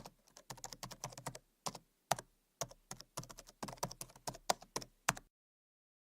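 Rapid, irregular clicking of keys on a computer keyboard being typed on, stopping abruptly about five seconds in.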